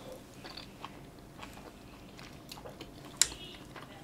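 A person chewing a soft tofu-and-chive dumpling with small wet mouth clicks and smacks, and one sharp click a little past three seconds in.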